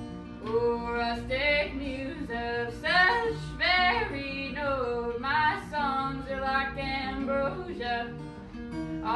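A voice singing a melody with sliding, wavering notes over a plucked acoustic guitar.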